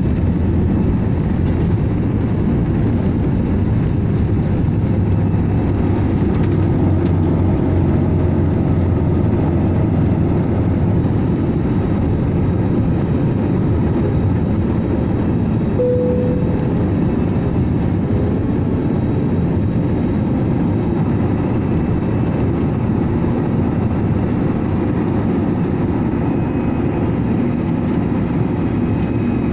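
Steady low rumble of an aircraft's engines, even in level throughout, with a brief higher tone about halfway through.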